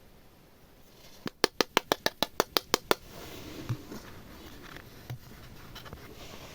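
Slime being worked with toy utensils: a quick run of about ten sharp taps, around six a second, then a softer sticky rustling with a few light clicks.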